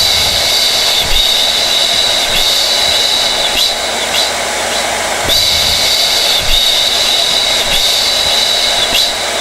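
Hair dryer running steadily: a constant rush of blown air with a high-pitched motor and fan whine over it.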